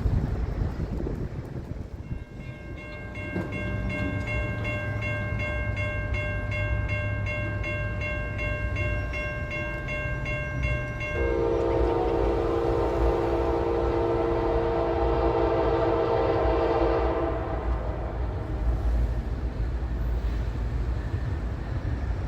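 A bell rings rapidly and steadily over a low locomotive rumble, then a diesel locomotive's air horn sounds one long blast of about six seconds, about halfway through, before fading.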